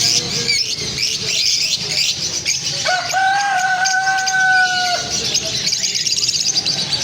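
A crowd of small birds chirping and chattering continuously. About three seconds in, one long, steady call lasts for about two seconds.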